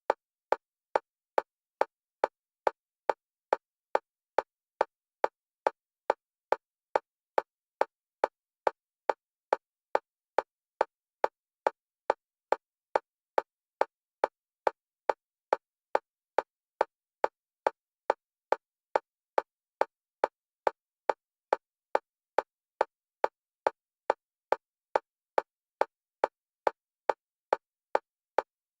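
Metronome clicks for EMDR bilateral stimulation, alternating between the left and right stereo channels, about two short clicks a second at a steady, even level.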